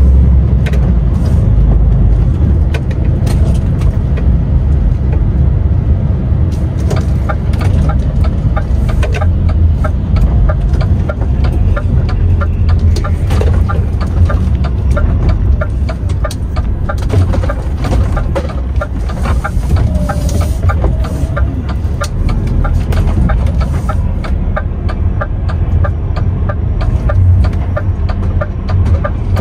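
DAF XF 510 truck on the move: a steady low drone of engine and road noise, with many small rattles and clicks over it.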